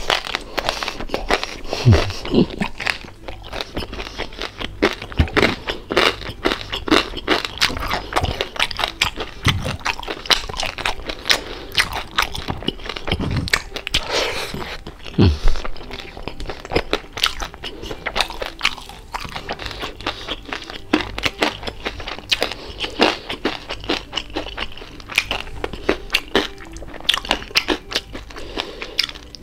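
Close-up crunching and chewing of crispy deep-fried pork belly (lechon kawali): a steady run of sharp, crackling crunches, bite after bite.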